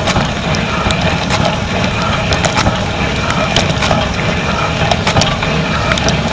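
Dishwasher running its wash cycle, heard from inside the tub: a steady rush of spraying water over a low pump hum, with frequent sharp clicks and taps scattered throughout.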